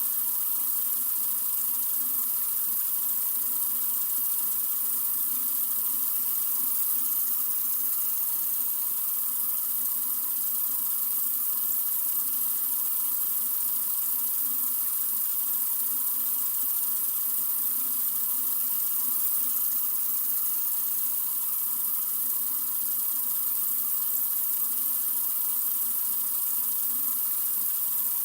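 Water running steadily from a sink faucet: an even, unbroken hiss, strongest in the high range.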